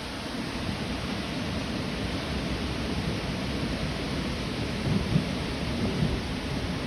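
Hurricane rainstorm: a steady rushing hiss of heavy rain with irregular low rumbling underneath, briefly swelling about five seconds in.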